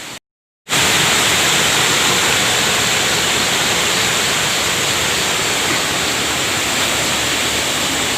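Steady, loud rushing noise of a night windstorm, even and unbroken, starting abruptly after a brief dropout to silence.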